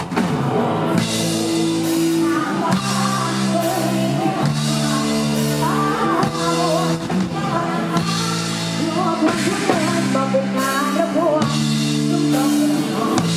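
Loud live Isan pop band music: drum kit keeping a steady beat under sustained keyboard and bass notes, with a lead voice singing the melody over it.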